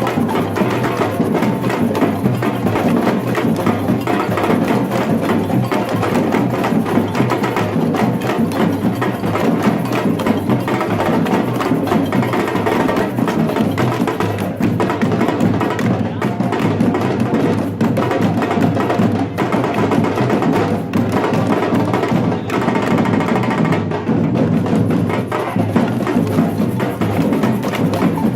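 Batucada drum group playing a continuous samba rhythm on drums and sharp-toned percussion, at a steady, loud level.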